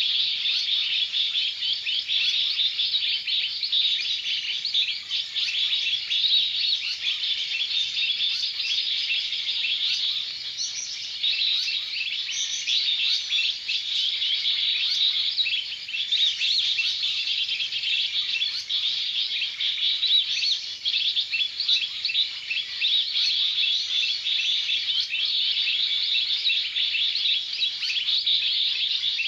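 Dense, continuous high-pitched bird chirping: many quick chirps overlapping without a break.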